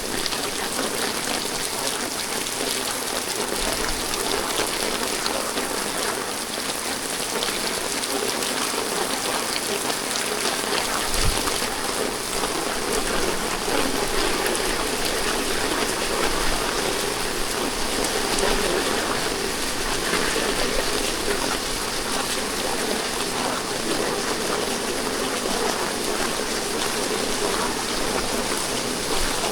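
Steady rain falling and pattering on surfaces, with one brief thump about eleven seconds in.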